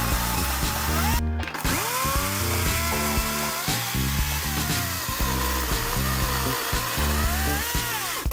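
A Narion 42V cordless electric chainsaw with a brushless motor runs and cuts wood. Its motor whine rises and falls with the load, breaks off briefly about a second in and then spins back up. Background music with a steady beat plays under it.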